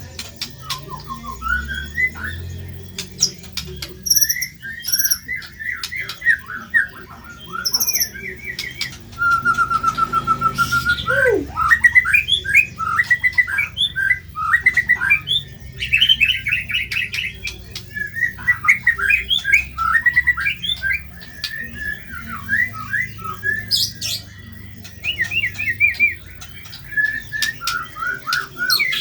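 White-rumped shama singing a fast, varied song of sharp chirps and short phrases, with an even trill about a third of the way in and a quick downward-sweeping note right after it.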